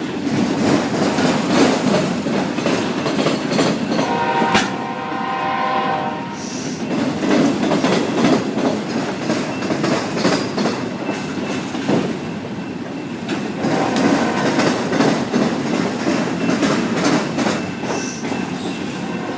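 Long train of CSX autorack cars rolling past on a curve: a steady rumble with the clickety-clack of wheels over rail joints. About four seconds in, a steady multi-note tone rises over it for about two seconds, and it comes back fainter near the middle.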